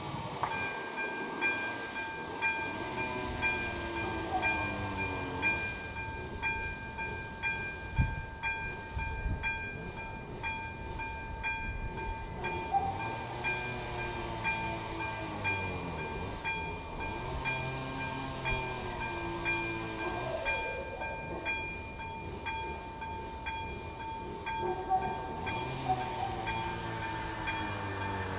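AŽD ZV-02 electronic warning bell of a level crossing ringing in a steady repeating pattern, starting about half a second in. It signals that the crossing's warning lights are active and a train is approaching.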